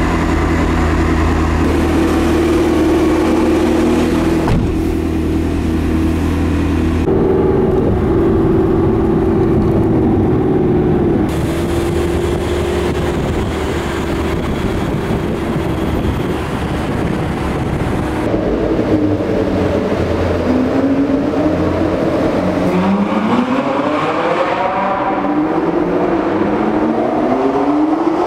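McLaren MP4-12C Spider's twin-turbo V8 heard from inside the cabin, in several cut-together clips: a steady idle first, then running on the move, and from about two-thirds of the way through it revs up in repeated rising sweeps as it accelerates through a parking garage.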